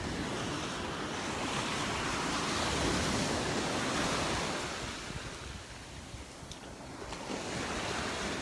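Waves breaking and washing on the shore, with wind buffeting the microphone. The wash swells, eases off about five seconds in, and builds again near the end.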